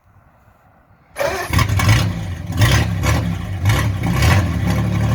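1940s Hudson side-valve engine starting about a second in, revving in several surges, then settling to a steady fast idle; its exhaust is leaking and due to be welded.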